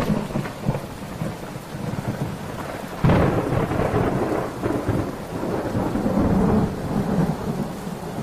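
Thunderstorm: steady rain, with a crack of thunder at the start and a long rolling rumble of thunder that breaks in suddenly about three seconds in and dies away near the end.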